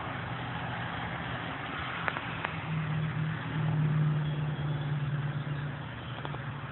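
A motor vehicle engine running nearby, a low steady hum that grows louder to a peak about four seconds in and then eases off, with a couple of faint clicks about two seconds in.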